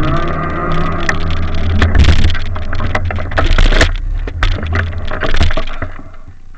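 Engine running with a low, steady hum amid many rattles and knocks, fading away in the last second.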